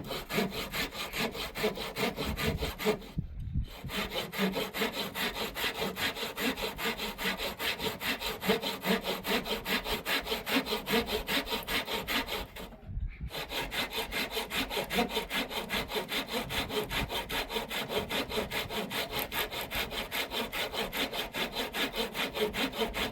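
Hand saw cutting through a wooden beam in quick, even back-and-forth strokes, with two brief pauses, about three seconds in and about thirteen seconds in.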